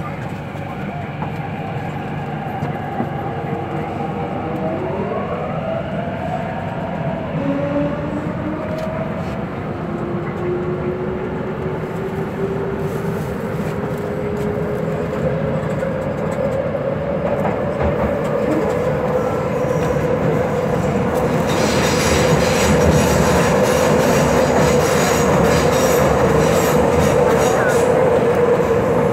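MTR C-Train electric multiple unit accelerating: the traction motors whine in rising tones about five seconds in, then settle into a steady hum that climbs slowly in pitch as speed builds. Wheel and rail running noise grows louder and brighter about three-quarters of the way through.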